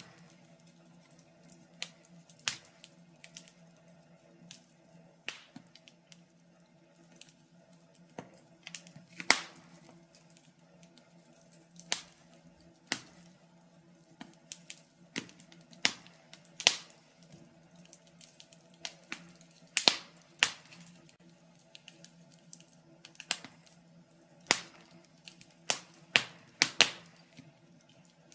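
Wood fire burning in a fireplace, crackling and popping in irregular sharp snaps, some louder than others, over a faint steady hum.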